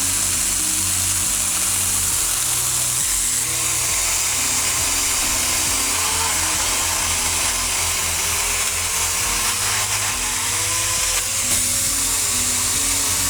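Small battery-powered Saker Mini electric chainsaw running and cutting through branches, its motor whine dipping and recovering in pitch as the chain works through the wood. Background music plays over it.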